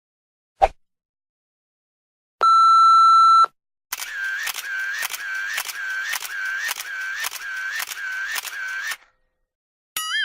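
A run of edited sound effects. First a short click, then a loud one-second steady beep like a censor bleep. Next comes a series of about ten camera-shutter clicks, about two a second, each with a short chirp. Near the end a wobbling boing begins.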